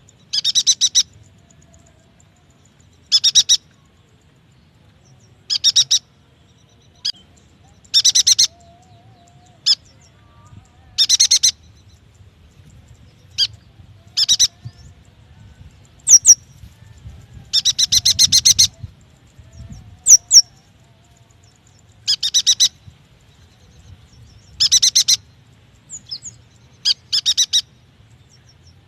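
Yuhina calls: short, rapid, chattering trills repeated every two to three seconds, with a few single high chirps and whistles in between.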